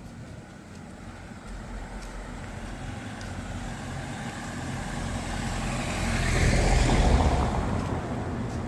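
A motor vehicle running close by, its engine and road noise growing louder to a peak about seven seconds in, then easing off.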